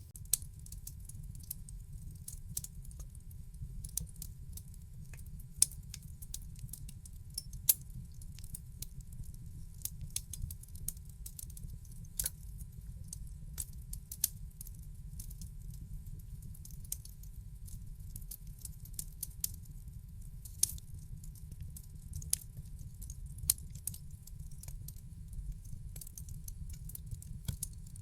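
Wood fire in a fireplace crackling: a steady low rumble of flames with irregular sharp pops and snaps, a few of them much louder than the rest.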